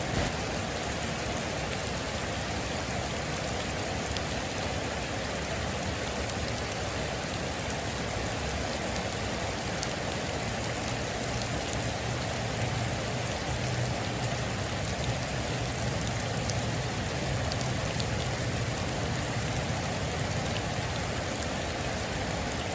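Heavy rain falling steadily on a metal roof, as an even hiss with faint scattered drop ticks.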